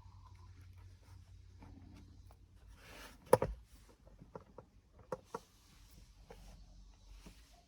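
Small parts being handled at close range: one sharp knock about three seconds in, then a few lighter clicks, over a faint steady low hum.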